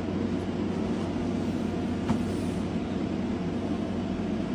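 Steady low background hum with one faint click about two seconds in.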